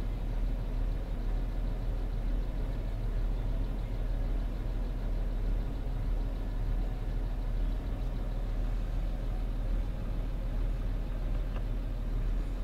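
Land Rover Discovery 3's engine idling, a steady low rumble heard from inside the cabin.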